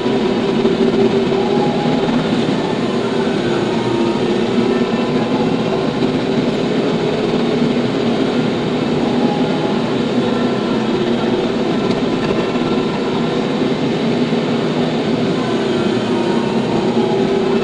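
TYM T574 tractor's diesel engine running steadily at a constant working speed.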